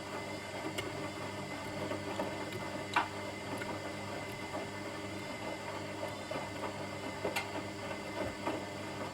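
Washing machine running: a steady motor hum with the drum tumbling, with light clicks and knocks scattered through it and a sharper click about three seconds in.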